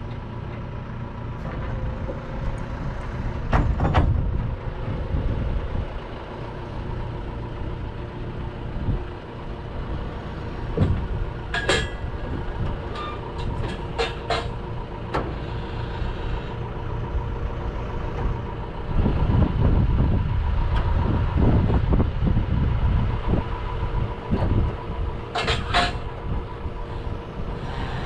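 A heavy goods vehicle's engine running, with a steady low rumble that grows louder for a few seconds past the middle. A few sharp knocks sound over it.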